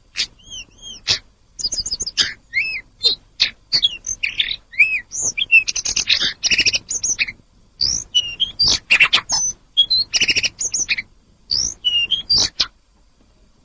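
Tledekan gunung songbird singing loudly: quick, varied phrases of sharp chirps, short whistled notes and trills, broken by a few brief pauses and stopping near the end.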